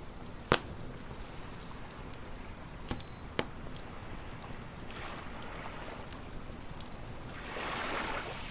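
Wood fire crackling, with three sharp pops: the loudest about half a second in, then two close together around three seconds. Waves wash in and swell near the end.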